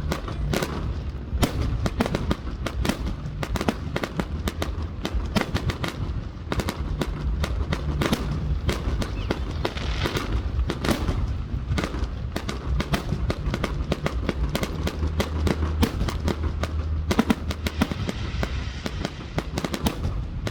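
Fireworks display: a rapid, continuous barrage of sharp bangs and crackles, many a second, over a steady low rumble.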